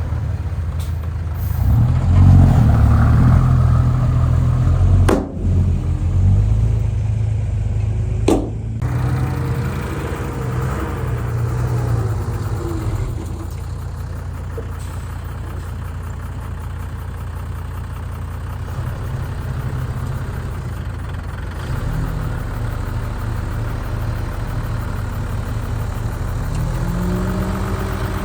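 Heavy diesel engine of earthmoving equipment running, mostly at a steady idle, with a couple of brief breaks a few seconds in. It revs up near the end.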